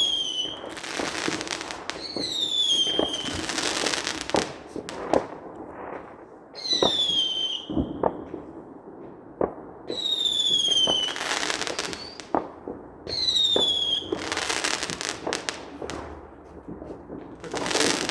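Fireworks going off: whistling shells, each a falling whistle followed by about a second of crackling, come roughly every three seconds. Sharp single bangs are scattered in between.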